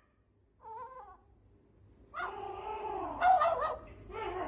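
A cat meowing: a short wavering meow about a second in, then longer, drawn-out yowls with rising and falling pitch from about two seconds in.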